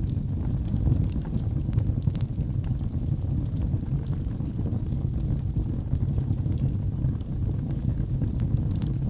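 Wood fire burning in a fireplace: a steady low rumble of flames with frequent small sharp crackles and pops of burning logs.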